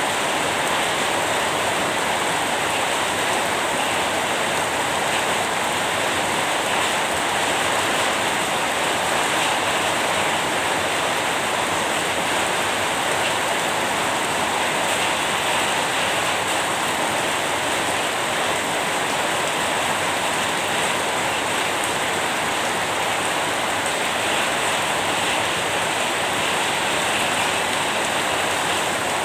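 Steady rain falling, a dense, even hiss with no single drops or gusts standing out.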